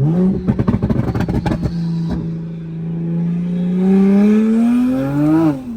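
Big-turbo Toyota Supra Mk5's B58 turbocharged inline-six under hard acceleration: a quick rev-up at the start with about two seconds of rapid crackling clatter, then a pull with the engine pitch rising steadily for about three seconds before dropping sharply near the end.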